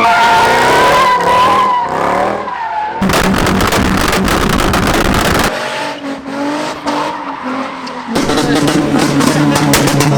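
Car engines revving and tyres squealing, in short clips that change abruptly: a wavering squeal for the first few seconds, then rough crackling engine noise, then a steady low engine note with rapid crackles near the end.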